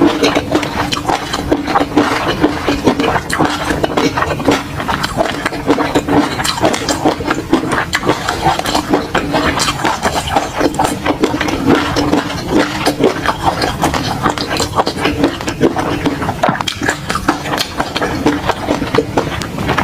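Close-miked eating: continuous wet chewing and mouth smacks from food with peanut sauce, a rapid, irregular run of clicks over a steady low hum.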